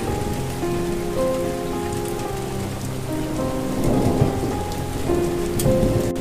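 Steady rain falling, with soft sustained melody notes changing slowly over it. A low rumble of thunder swells about four seconds in and again near the end.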